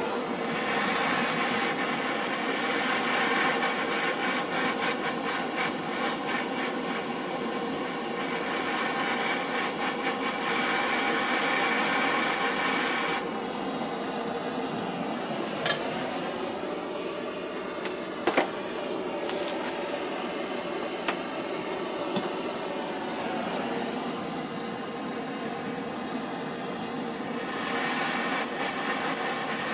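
Gas blowtorch burning with a steady roar, heating the copper oil-feed pipe and its fittings for soldering. A couple of sharp clicks come in about halfway through.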